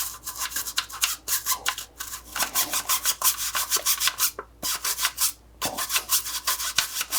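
Soft-bristled toothbrush scrubbing a soapy metal-mesh dishwasher filter in quick back-and-forth strokes, with two brief pauses about halfway through.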